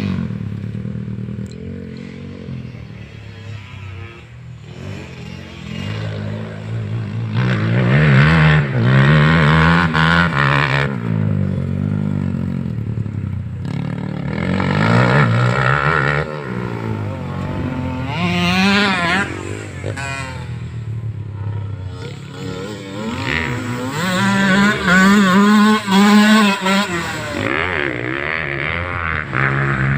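Motocross dirt bike engine revving up and backing off again and again, with several loud surges as the bike accelerates.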